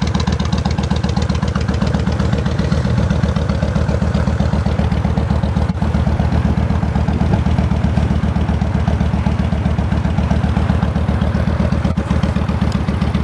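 2004 Kawasaki Mean Streak's V-twin engine idling steadily, with an even, rapid pulse.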